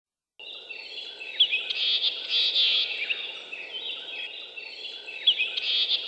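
Birdsong ambience: several birds chirping and calling over a faint steady hiss, starting about half a second in.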